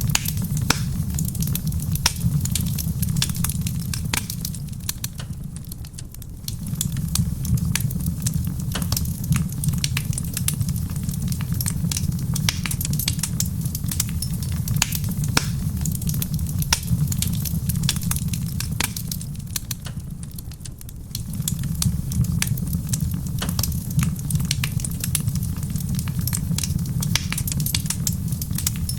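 Wood fire in a stone fireplace crackling steadily with many sharp pops over a low rumble, mixed with soft rain. The low rumble fades down and comes back twice.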